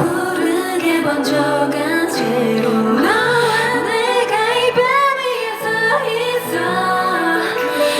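K-pop song performed live: a woman's sung melody over a pop backing track with a steady bass line.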